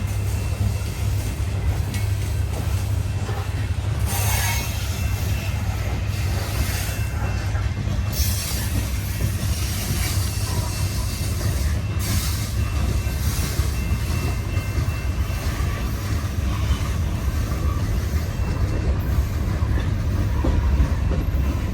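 Slow, heavily loaded freight train of rock-filled cars rolling past: a steady, loud low rumble of wheels on rail, with high wheel squeal swelling up every few seconds.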